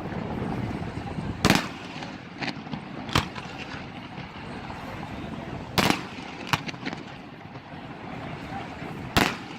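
Aerial fireworks shells bursting: several loud bangs a second or more apart, with smaller cracks between them, over a steady background rumble.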